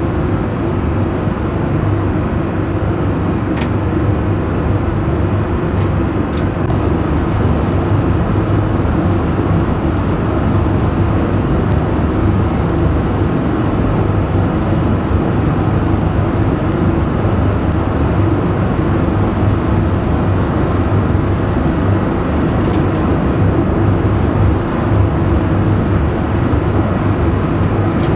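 Steady engine and airflow noise inside the cabin of a Boeing 787-8 airliner in flight, a constant deep rumble and rush.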